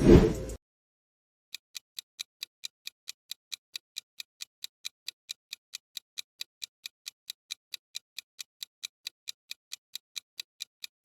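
A short loud burst of noise, then an even clock-tick sound effect at about four to five ticks a second: a quiz countdown timer running while the question waits for an answer.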